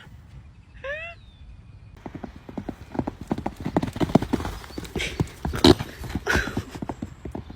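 Horse hooves clopping in a quick, irregular run of strikes that starts about two and a half seconds in and lasts about five seconds. A short rising call sounds about a second in.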